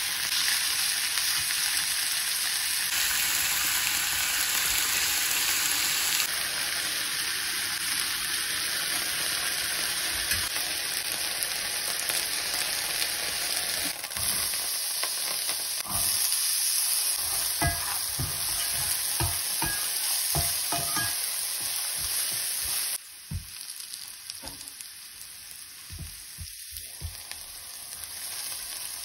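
Chicken breast slices sizzling as they fry in hot olive oil in a nonstick pan. In the second half a spatula stirs diced onion and red pepper in the pan, with scraping and sharp taps over a quieter sizzle.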